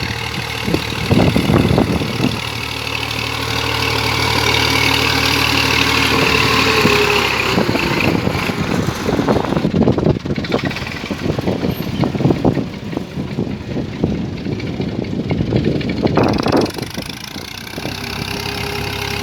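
Tractor engine running steadily, then joined by clattering knocks and rattles through the second half.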